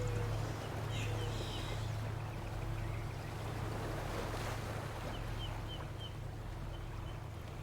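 Tibetan singing bowl tones dying away over a steady low hum and the wash of ocean surf. Birds chirp briefly about a second in, then give a quick run of four short chirps near six seconds.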